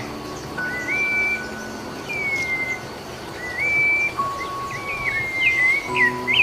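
Songbird singing short clear whistled phrases that slide up and down in pitch, repeated every second or so, over soft background music with long held notes; the music's low notes come back near the end.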